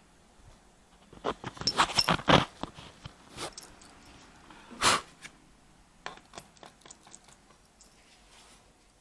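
Small metal screws and a screwdriver being handled on a laptop's plastic base: a quick run of clicks and rattles, one sharp click a little later, then a few light taps.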